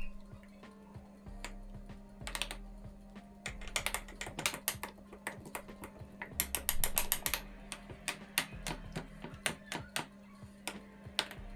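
Series of sharp clicks and taps at an uneven pace, with a quick run of about ten clicks around six to seven seconds in, over a steady low hum.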